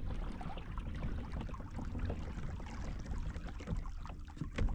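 Water sloshing and trickling against a kayak's hull as it moves through the water, with small splashes over a low steady rumble.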